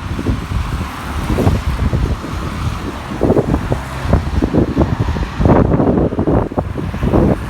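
Wind buffeting the microphone in a snowstorm, a loud, uneven low rumble that swells in gusts, strongest near the end.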